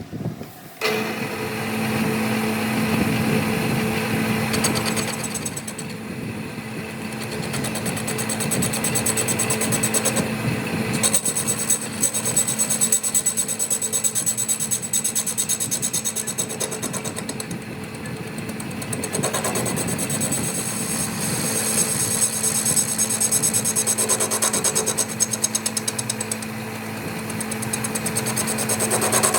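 A metalworking machine running steadily with a fast, even chatter and a constant hum, swelling and easing slightly as it works.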